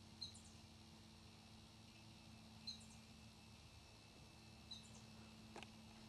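Near silence with a steady low hum, broken by a faint small-bird chirp about every two seconds, each a short falling note.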